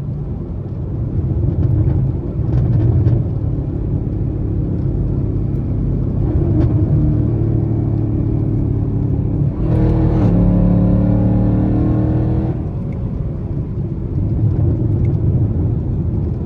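Chevrolet Camaro SS's 6.2-litre V8 running under way, with road rumble; its note climbs as it accelerates a few seconds in, dips briefly, then climbs harder for about two seconds before settling back to cruise.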